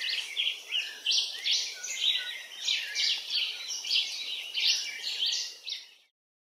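Birds chirping: a dense, overlapping run of short, high calls that fades out near the end.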